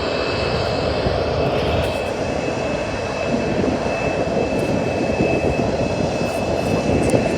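Airliner engines running nearby: a steady heavy roar with a thin, high, steady whine over it.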